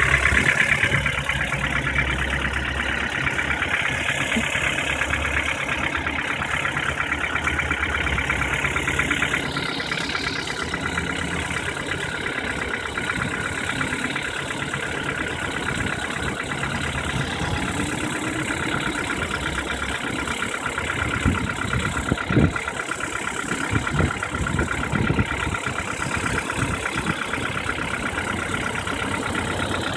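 Ford Duratec 1.6 four-cylinder petrol engine running steadily with a fast, even knock in its sound, the knock the owner is recording. A few sharper thumps stand out about two-thirds of the way in.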